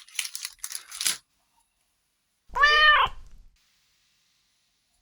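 Packaging crinkling for about a second, then a cat meows once, a short call that rises and falls in pitch.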